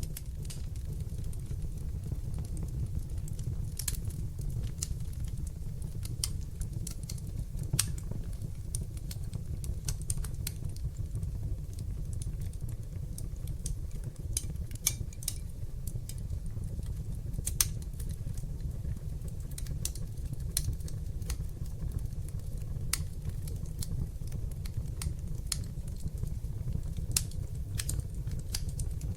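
Fire in a fireplace crackling: irregular sharp pops and snaps, a few louder than the rest, over a steady low rumble of the flames.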